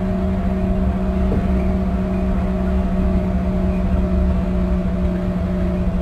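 Lisbon Metro ML90 train heard from on board: a steady low rumble under a constant electrical hum, even in level throughout.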